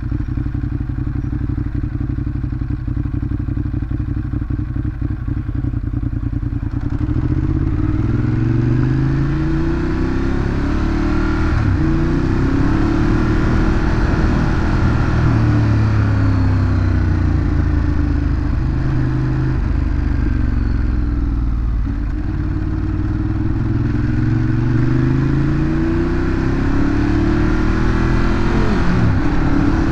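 Ducati Monster 821's L-twin engine through its stock exhaust, running at a steady pitch at first. About seven seconds in it accelerates, the pitch climbing and stepping down again with each gear change, and it does so again near the end.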